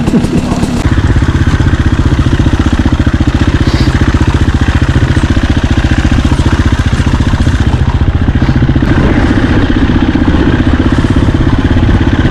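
Single-cylinder enduro dirt bike engine running with a steady, rapid firing beat. It gets louder about a second in and then holds an even pace.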